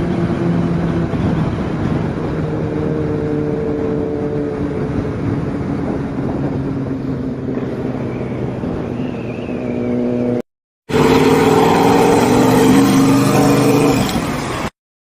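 Motorcycle engine running at fairly steady revs, with no big rev sweeps. The sound drops out to silence twice, for about half a second each time, and is louder between the two gaps.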